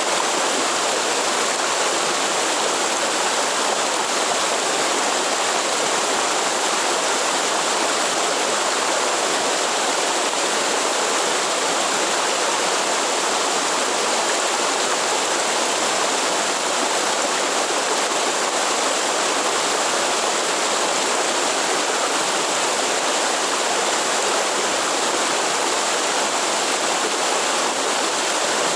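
Waterfall and rushing stream water, a steady, even rush of falling water with no breaks.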